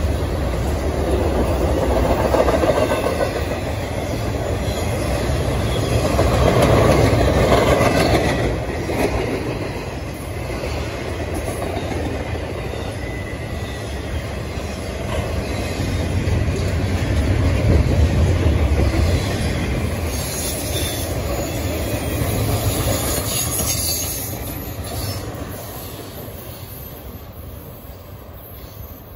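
Intermodal freight train of trailers on flatcars rolling past close by: continuous wheel-on-rail rumble and clatter with some wheel squeal. It fades over the last few seconds as the end of the train pulls away.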